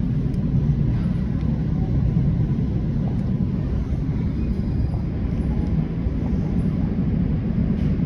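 Steady low rumble of a moving train, with a few faint ticks.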